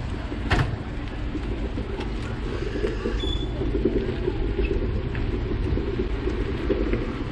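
Steady rumble of riding along a street on a bicycle: wind buffeting the microphone and road noise, with one sharp knock about half a second in.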